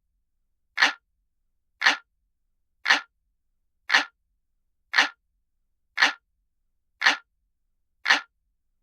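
Looped analog-clock ticking sound effect: single sharp ticks, evenly spaced about once a second, with silence between them, eight in all.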